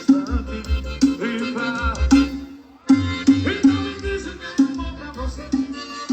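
Brazilian pop music with a heavy bass beat and singing, played loud through a car trunk sound system of two subwoofers and eight midrange speakers. The music drops out briefly about two and a half seconds in, then comes back on the beat.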